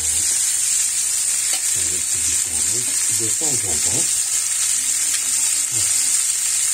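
Red tuna steaks frying in fat in a pan: a steady, hissing sizzle.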